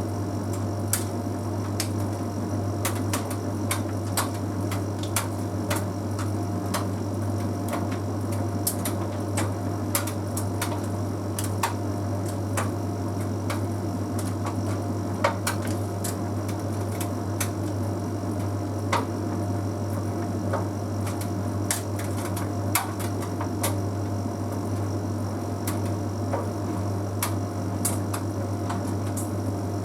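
Bosch Series 6 heat pump tumble dryer running through its Easy Care drying cycle: a steady low hum with scattered light clicks and ticks.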